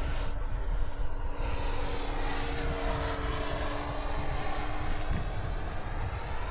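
Electric ducted-fan RC jet flying overhead, its steady whine sinking slightly in pitch, with low wind rumble on the microphone.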